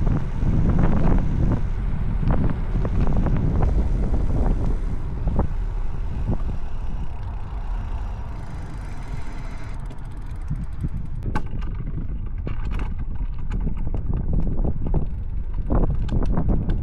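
Bicycle descending fast: heavy wind buffeting on the microphone and road rumble, with frequent sharp rattles and clicks from the bike. The sound eases a little about halfway through, then turns rattlier with sharp knocks.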